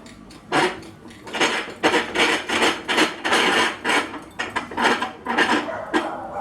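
A small hammer being clamped in a bench vise: a quick, irregular string of metal clinks and scraping as the hammer is set in the jaws and the vise is wound tight.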